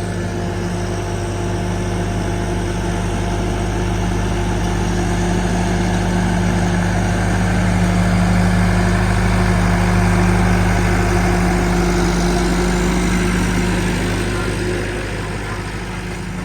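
Allis-Chalmers tractor engine running steadily as it pulls a yard rake. It grows louder toward the middle and fades over the last few seconds as the tractor moves away.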